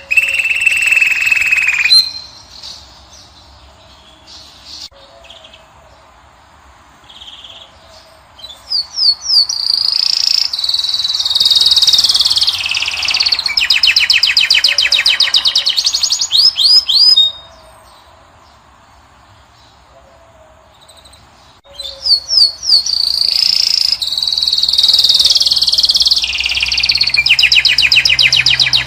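European goldfinch singing loud, high song bouts of quick upswept notes and fast rattling trills. There are three bouts: a short one at the start, a long one of about eight seconds in the middle, and another starting near the end, with quiet pauses between them.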